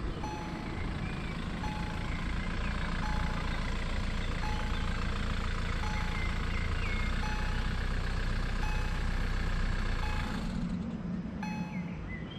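An electronic level-crossing warning bell (EHL-S10) strikes a single ding about every second and a half, signalling that the crossing is closed. Under it is the steady noise of a motor vehicle, which fades away about ten seconds in.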